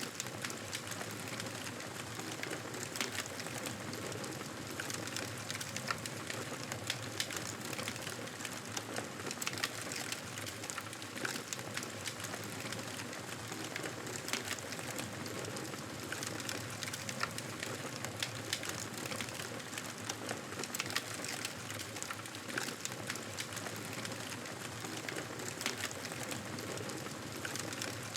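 Campfire burning with a steady hiss and frequent irregular crackles and pops.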